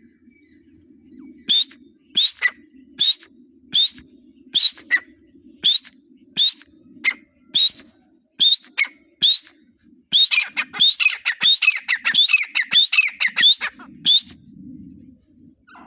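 Grey partridge (teetar) calling: sharp, high notes that slide upward, repeated roughly every three-quarters of a second. About ten seconds in they turn into a faster, denser run of overlapping calls, which stops shortly before the end.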